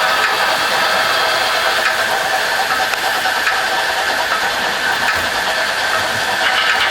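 Märklin HO three-rail model train running on the layout: a steady motor whir with wheels rattling on the track.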